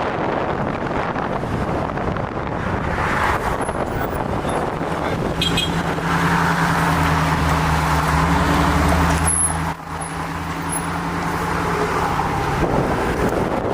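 Dodge Challenger's engine and exhaust droning while driving, over wind and road noise. The engine note comes up and holds steady through the middle, rising slightly, then fades back into road noise near the end.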